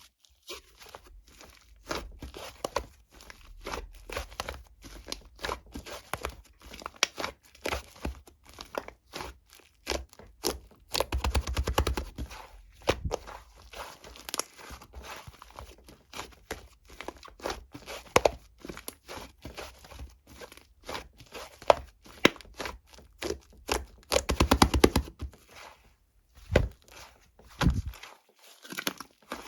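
Slime being squeezed, pressed and poked by hand, making a steady stream of sticky clicks and small pops. The pops come in fast, dense runs about eleven seconds in and again near twenty-five seconds.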